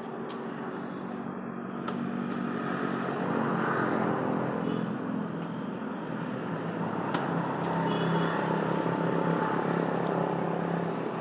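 A motor vehicle's engine running, its pitch shifting slightly and its level building over the first few seconds.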